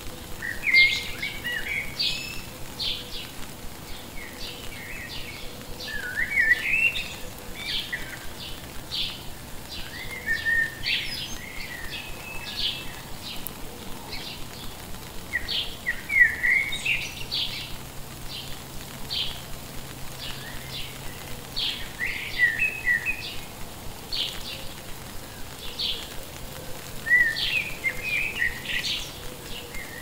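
Songbirds calling: short high chirps repeat a couple of times a second throughout, and every few seconds a lower warbling phrase slides up and down.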